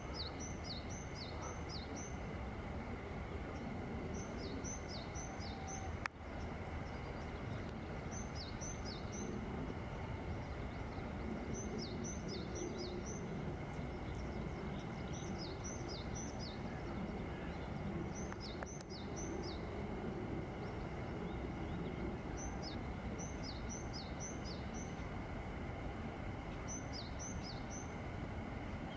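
A songbird repeating a short song phrase of four or five quick, high, downward-slurred notes, about once every three and a half seconds, over steady outdoor background noise. A single sharp click about six seconds in.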